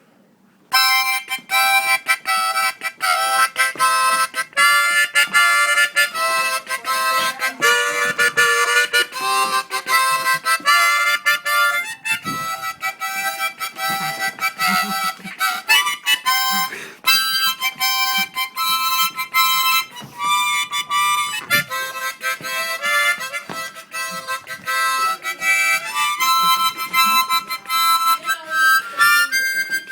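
Harmonica played fast and loud, starting abruptly about a second in, with choppy chords broken by quick stops and starts.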